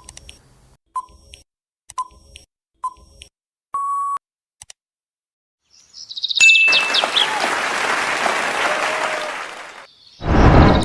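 Quiz sound effects: four short beeps about a second apart, then one longer steady beep. After a short pause, a chirpy jingle gives way to a long hiss-like noise of about three seconds, and a loud burst comes near the end.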